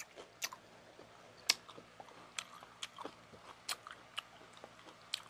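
Close-up mouth sounds of people chewing grilled isaw (chicken intestine on skewers): soft, irregular wet smacks and clicks.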